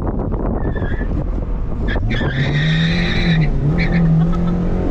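Turbocharged K-series four-cylinder of an Acura RSX Type-S driven hard, its pitch climbing and dipping as it is worked through a course. The tires squeal for about a second and a half in the middle, sliding for lack of grip on worn all-season tires.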